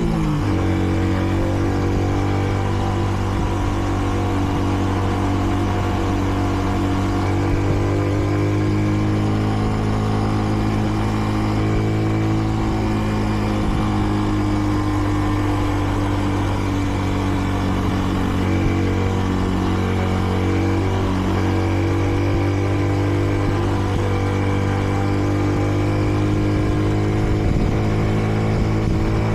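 Kreidler Dice CR 125 motorcycle engine running under way at steady moderate revs, the bike still in its running-in period and held to modest speed. Its pitch changes quickly at the very start, then holds fairly steady and climbs gently near the end.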